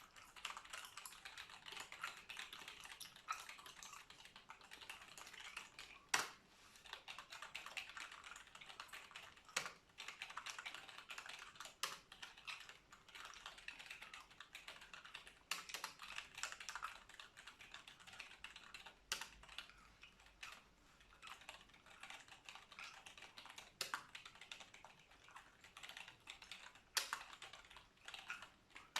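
Computer keyboard being typed on: a steady, rapid stream of key clicks, with an occasional louder single keystroke every few seconds.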